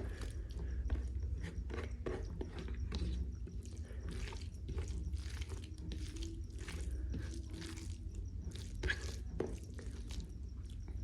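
Close-up eating sounds: chewing and biting a mouthful of jackfruit curry with rice, with wet mouth noises and small crunches at an irregular pace over a low steady hum.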